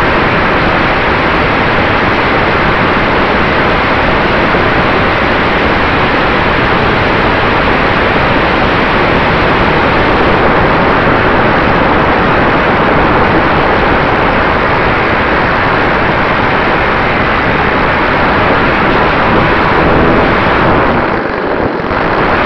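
Loud, steady rushing noise of wind over the microphone, with a faint steady tone underneath.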